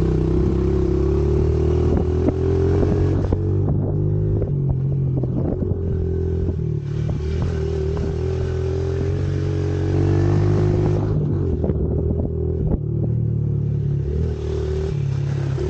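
Pit bike engine running, alternately pulling hard and easing off, with scattered clattering knocks.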